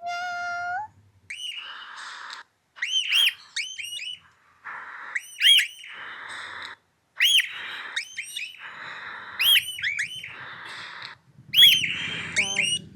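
Caged parrots calling: many short, arched whistles repeated again and again, mixed with longer harsh, raspy squawks, and one steady, drawn-out call at the very start.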